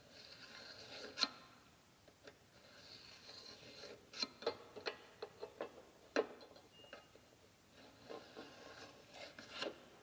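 Faint rasping strokes of a hand tool worked on a small workpiece, in a few separate spells, with a string of sharp clicks and knocks in the middle and near the end as parts or tools are handled.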